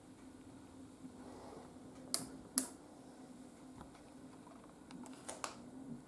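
Haier HW120 washing machine running: a faint steady low hum with a few sharp clicks, two close together about two seconds in and two more near the end.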